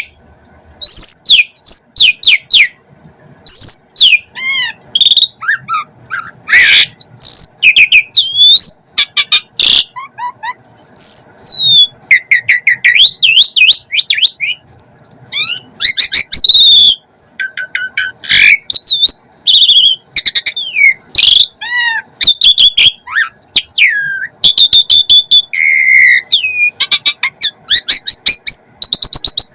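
Asian pied starling (jalak suren) singing a loud, varied song without pause. It mixes clear rising and falling whistles, harsh notes and rapid clicking trills, a rich song full of borrowed phrases ("full isian").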